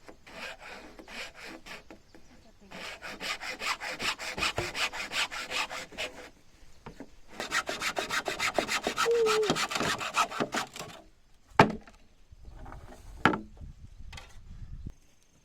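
Hand saw cutting through wood in three spells of quick, even strokes, followed by two sharp knocks.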